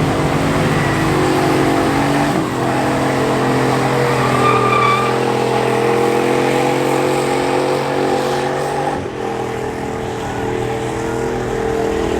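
Truck engine held at high, steady revs over a broad hiss of tyre noise, as in a burnout.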